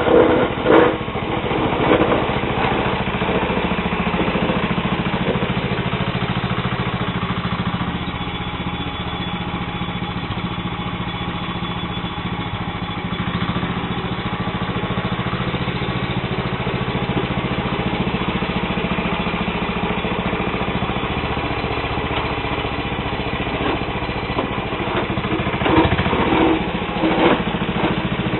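Single-cylinder Tecumseh HH120 engine of a Sears Suburban SS12 garden tractor running steadily while the tractor pushes snow with its blade, with a few brief louder surges near the start and near the end.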